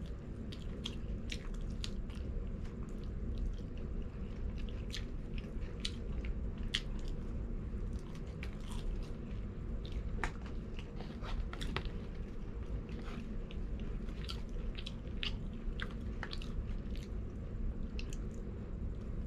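A person chewing crispy fried chicken and fries, with frequent irregular sharp crunches over a steady low hum.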